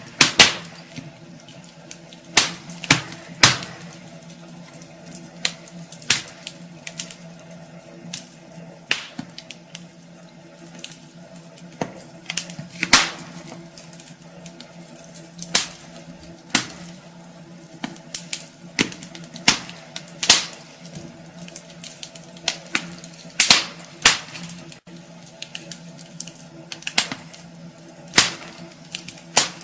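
Wood fire burning in a fireplace, crackling with sharp, irregular pops about once or twice a second over a steady hiss.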